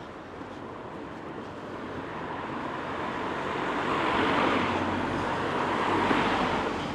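A vehicle passing close by: a steady rushing noise that swells over a few seconds, holds loudest for a couple of seconds, then falls away near the end.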